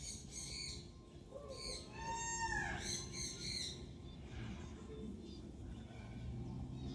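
Several birds calling, with repeated short high chirps and a longer arching, rising-then-falling call about two seconds in.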